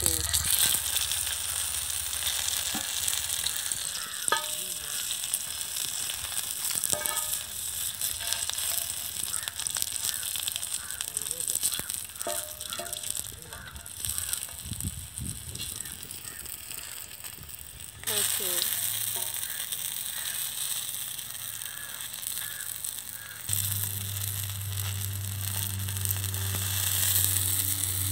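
Oil sizzling steadily on a hot iron tawa as pieces of snake gourd fry, with occasional scrapes of a slotted metal spoon turning them. A low steady hum joins near the end.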